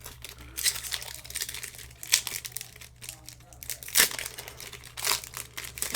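Pokémon booster pack wrapper crinkling and being torn open by hand, in several short bursts of rustling.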